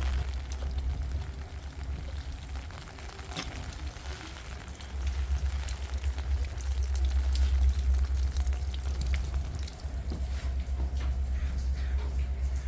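Rain pattering and ticking on a moving car, with the steady low rumble of road and tyre noise inside the cabin.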